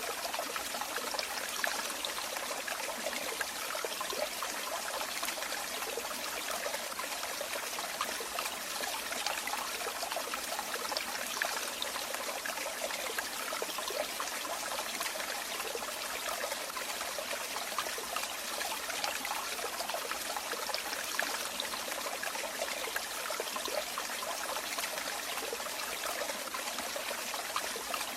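Running water trickling and splashing steadily, like a small stream or falling water, with a constant bright hiss.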